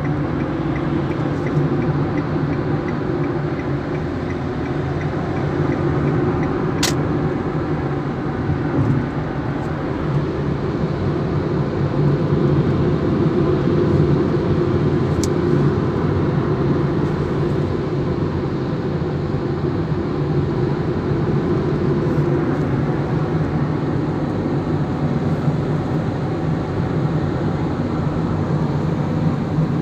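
A car being driven, its engine and tyre noise making a steady drone, with a sharp click about seven seconds in.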